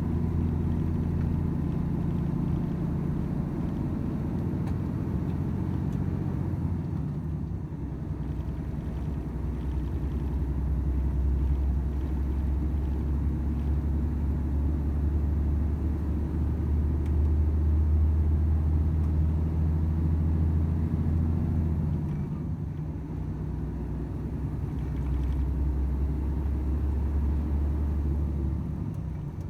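Volvo FH 500 truck's 13-litre straight-six diesel engine running steadily under way, with road and tyre noise. The engine note shifts a few times, about a quarter of the way in, again about three quarters in, and just before the end.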